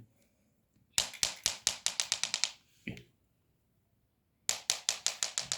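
Two quick runs of sharp clicks, a few to several a second: the first starts about a second in, the second near the end, speeding up and fading.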